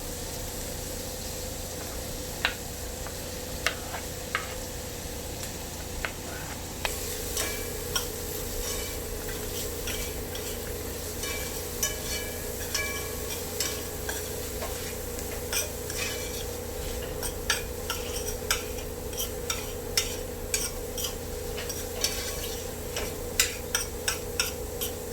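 Vegetables sizzling in butter in a frying pan while a utensil stirs them, with frequent light clicks and scrapes against the pan that get busier about seven seconds in.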